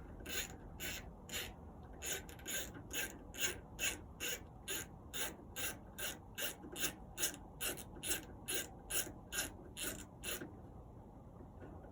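Ratcheting socket wrench with a 7/32 socket clicking in short, even back-and-forth strokes, about three a second, as it spins off a loose nut on the auger motor's shear-pin screw. It stops about a second before the end.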